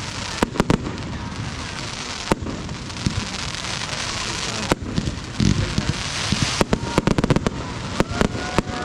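Fireworks going off: sharp bangs and crackling over a steady hiss, with a quick run of rapid cracks about seven seconds in and faint whistling glides near the end.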